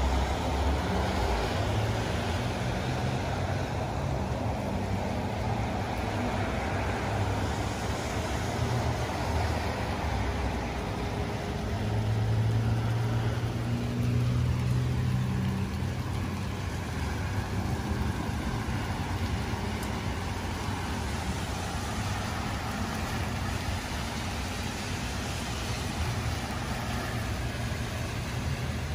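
Steady rain falling, with a low rumble of road traffic or a vehicle engine underneath that swells for a few seconds about twelve seconds in.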